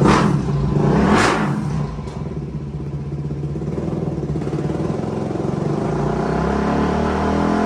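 Suzuki DR-Z400's single-cylinder four-stroke engine running on a dyno through an MRD Z-Pro exhaust. It gives two sharp bursts about a second apart, then settles into a steadier run that slowly grows louder.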